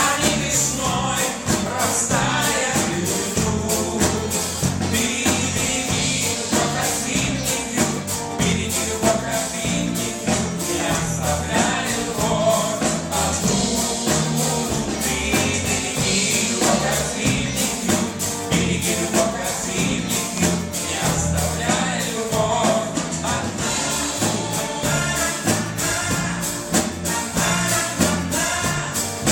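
A live band plays a song with a lead singer over a steady percussion beat.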